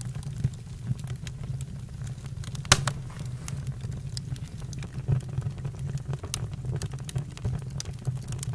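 Campfire crackling, with irregular sharp pops over a low steady rumble of the burning wood. One pop, a little under three seconds in, is much louder than the rest.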